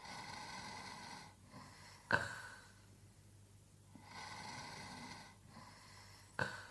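A sleeping man snoring in a slow, regular rhythm of about one breath every four seconds. A sudden loud snore comes about two seconds in and again near the end, with breathy, rasping stretches between them.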